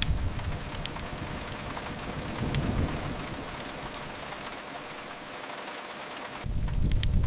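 Steady rain hiss with the sharp, scattered crackles of a wood fire. A deep low rumble fades out just after the start, swells briefly about halfway, and comes in again suddenly near the end.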